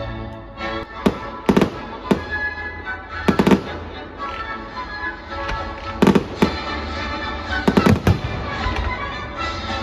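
Fireworks going off in a run of sharp bangs, some single and some in quick clusters of three or four, over music that plays throughout.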